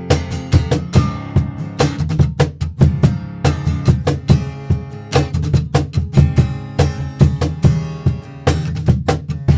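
Instrumental passage of a live band: strummed acoustic guitar with drums keeping a steady beat, no singing.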